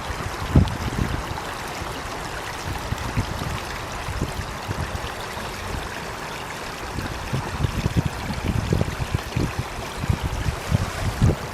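A stream running: a steady rush of water with irregular low gurgles, which come thicker in the second half.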